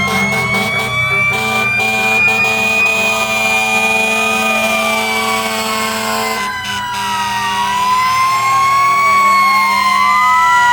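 Several fire truck sirens wailing at once, their pitches rising and falling slowly and out of step with each other, over steady held tones.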